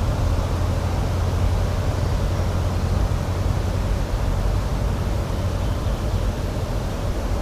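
Steady, deep rushing outdoor noise, strongest in the bass, with no distinct events.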